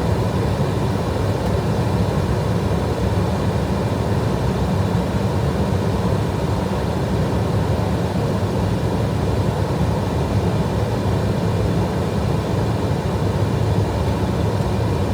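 Steady in-flight noise in an Airbus A320 cockpit: a constant low drone of airflow and engines, with faint steady high tones above it.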